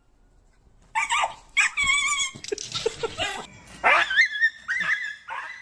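A dog whining and yelping in high, wavering cries, starting about a second in, with a few short, lower yips in the middle: the dog is frightened of a cat.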